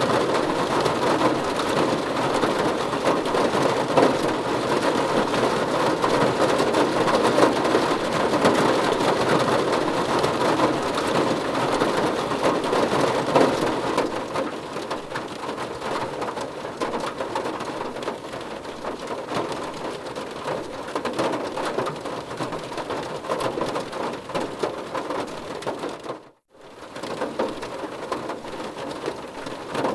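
Steady rain falling, a dense even patter that eases slightly about halfway through. Near the end it cuts out for a split second and comes straight back, as at a splice in the recording.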